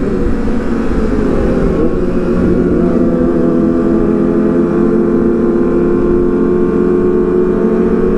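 Kawasaki sport motorcycle engine running loud at steady, fairly high revs, its pitch held nearly constant, over a low rumble of wind or road noise.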